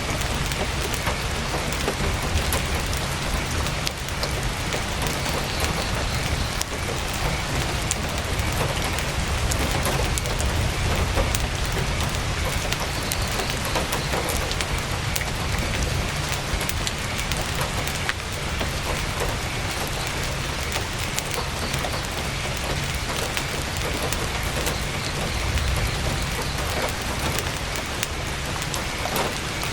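Heavy rain falling steadily on a tent, an even wash of noise with a low rumble underneath and scattered sharp ticks of drops.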